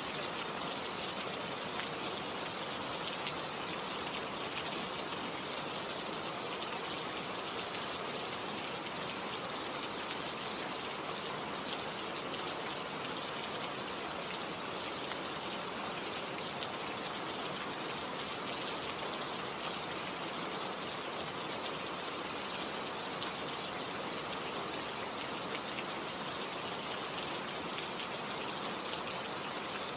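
Steady rain falling, a constant hiss with many fine drop ticks.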